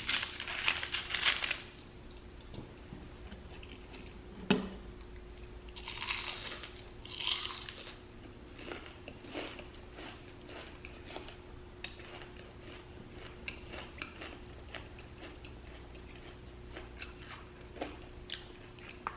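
Close-up eating sounds of a person biting into and chewing crunchy fried fast food. Crunchy bites come in the first second or so and again around six to seven seconds in, then quieter, softer chewing.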